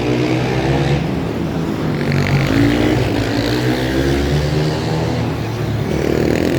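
Supermotard racing motorcycles' engines revving hard, the pitch climbing again and again as the bikes accelerate, over a steady low drone of more engines.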